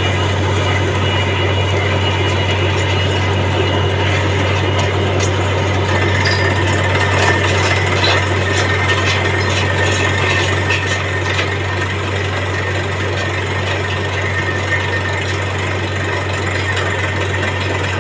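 Borewell drilling rig running steadily: a constant low engine drone under a loud rush of air and water blown up out of the freshly struck bore, with scattered clicks and rattles around the middle.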